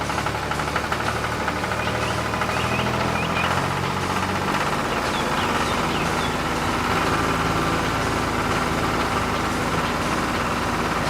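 A motor running steadily with a low hum, its pitch shifting slightly about four seconds in, and a few faint short chirps above it.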